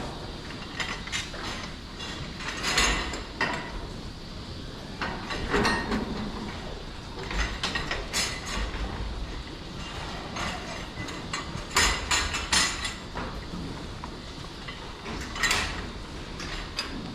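Irregular metal clanks and scrapes at a cattle barn's feed fence during feeding, a few strokes every couple of seconds, over a low barn rumble.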